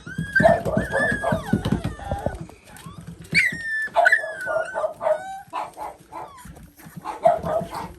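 Young puppies yipping and whining, several high-pitched calls that slide down in pitch, in a few clusters.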